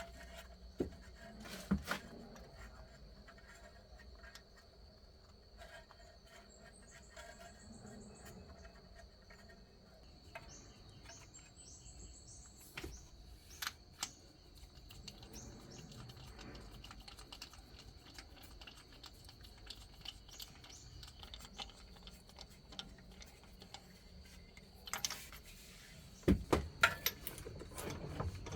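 Scattered light clicks and knocks of hand tools and parts being handled during car repair work, with a cluster of louder clicks near the end. A faint steady high tone runs underneath, and a few faint chirps come in the first half.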